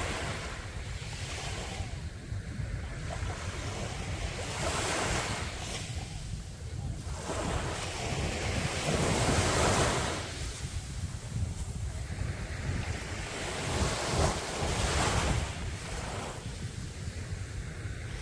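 Sea waves breaking and washing up the beach, swelling and falling away every few seconds, with wind buffeting the microphone.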